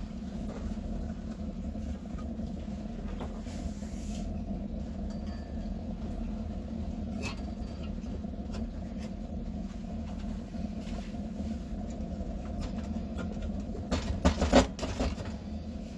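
Bench pillar drill parts being handled and fitted onto the column: a few light clicks, then a short burst of loud clunks about fourteen seconds in, over a steady low hum.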